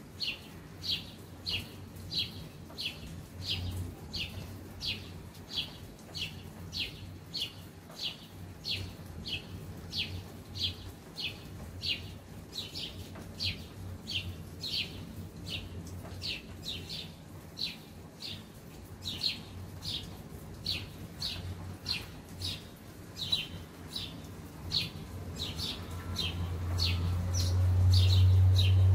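A bird chirping over and over in an even rhythm, about two short chirps a second, over a low steady hum. Near the end a car passes close by, its low rumble swelling to the loudest point.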